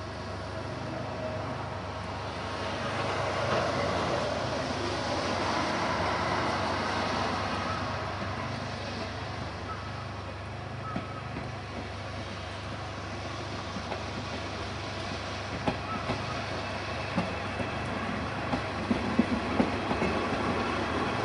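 KiHa 58 diesel railcar's DMH17H horizontal eight-cylinder diesel engine running, with a steady low hum that swells in level about three seconds in and eases off again. In the last few seconds, sharp clicks and knocks come more and more often.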